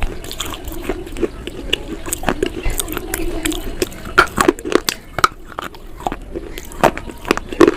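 Close-miked biting and chewing of something crunchy: a run of sharp, irregular crunches, a few louder ones standing out.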